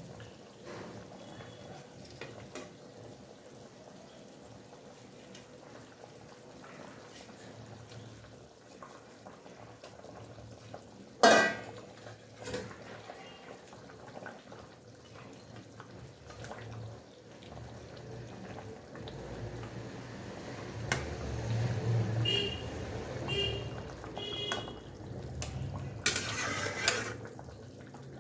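Fish curry gravy bubbling in a pot, with a metal spatula clinking and knocking against the pot, including a sharp knock about eleven seconds in and a run of ringing clinks and a clatter near the end.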